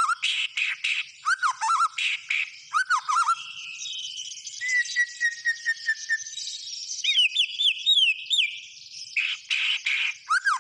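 White-rumped shama (murai batu) singing a varied, busy song. Slurred falling whistles mix with harsh buzzy chatter, a quick run of repeated notes comes in the middle, then a few looping whistles before the harsh chatter returns near the end.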